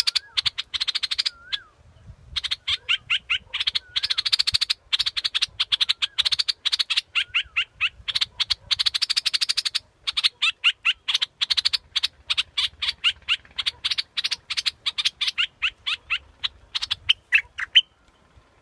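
Bulbul song, the yellowish bulbul Thai bird trappers call 'nok dok taeng', played as a decoy call: long rapid runs of sharp chattering notes with short downslurred whistles. It pauses briefly twice and stops shortly before the end.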